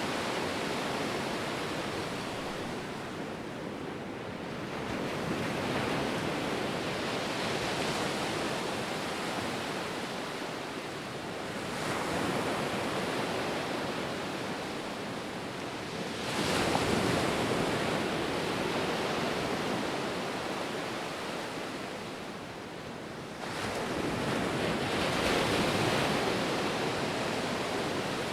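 Ocean surf: a continuous wash of waves, swelling each time a breaker comes in, three times here, the sharpest surge about two-thirds of the way through.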